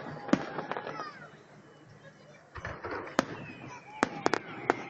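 Fireworks going off in a series of sharp bangs and crackles, with a short lull in the middle before several more bursts follow in quick succession.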